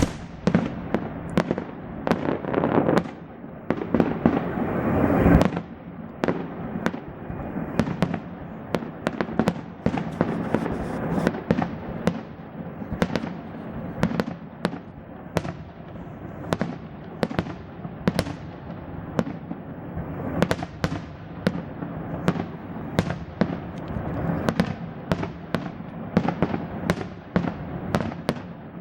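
Fireworks display: a rapid, continuous string of sharp bangs and crackles, several a second, with a louder rushing swell from about three to five seconds in that cuts off suddenly.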